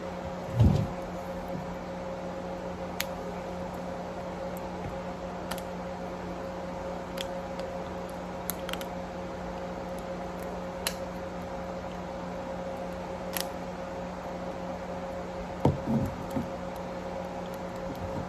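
Steady electrical hum with scattered small clicks and crinkles from hands unwrapping the plastic layers of an L.O.L. Surprise pet toy ball, with a louder bump about a second in and a couple more near the end.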